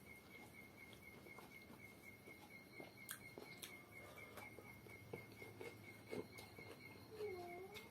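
Faint eating sounds: soft chewing with scattered small clicks and taps, over a steady high pulsing tone that repeats about five times a second. Near the end there is a brief dipping-then-rising tone.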